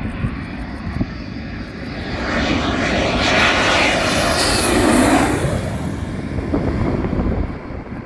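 Panavia Tornado ECR jet with its twin RB199 turbofans passing by: the noise builds to a peak a few seconds in, then falls away with a dropping pitch.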